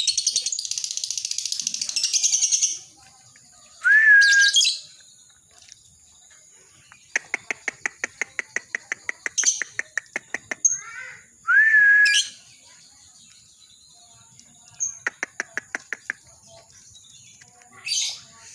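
Lovebird chattering in a fast, high, unbroken trill (the 'ngekek' song) for about three seconds, then breaking into separate sharp rising calls and runs of quick clicking notes.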